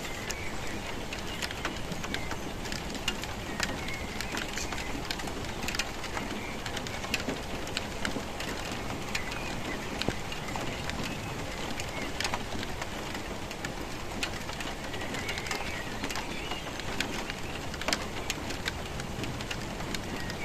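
Steady rain falling, with frequent sharp drops tapping close by. A bird calls faintly now and then through it.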